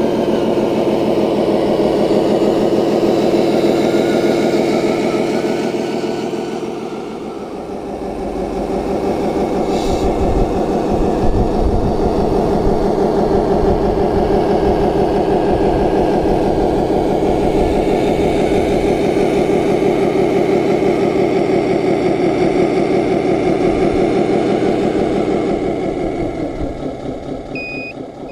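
Diesel engine sound, as simulated on a radio-controlled scale construction model, running steadily. It drops in level about a quarter of the way in, comes back up, and fades slightly near the end.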